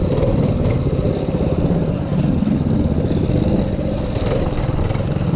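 Minibike's small engine running steadily under way.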